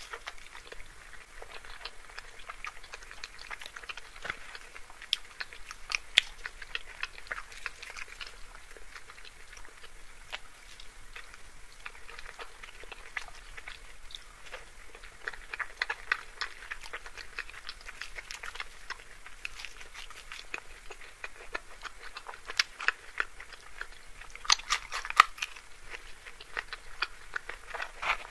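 Close-miked chewing of luchi (deep-fried puffed wheat bread) with dum aloo: wet mouth clicks, smacks and soft crunches coming in clusters, busiest about a fifth of the way in, around the middle and again near the end.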